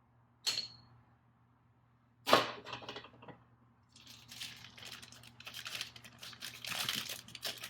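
A light click, then a sharp knock a little after two seconds, then several seconds of crinkling and rustling of plastic packaging being handled while small turbo gaskets and O-rings are sorted.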